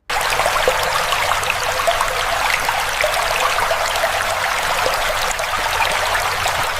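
Running or splashing water, a steady dense rush with fine crackles, starting abruptly.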